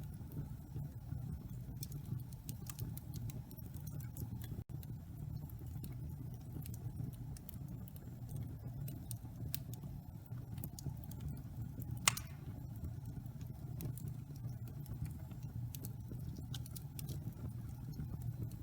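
Wood fire burning in a fireplace: a steady low rumble of flames with scattered small crackles, and one louder pop about twelve seconds in.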